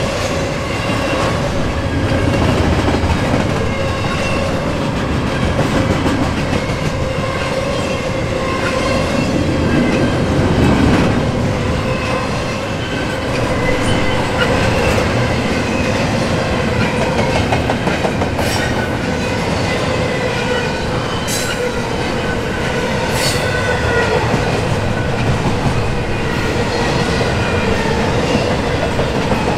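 Double-stack intermodal container cars rolling past: a steady rumble of steel wheels on rail with clickety-clack and a wavering wheel squeal. A few sharp clicks are heard past the middle.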